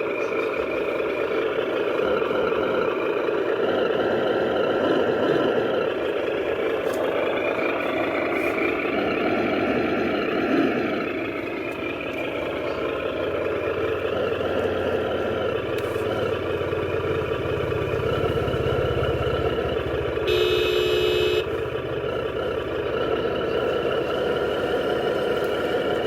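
Remote-control 8x8 truck's electric drive motors and gearboxes whining steadily as it drives, the pitch wavering with speed. A short electronic beep sounds about twenty seconds in.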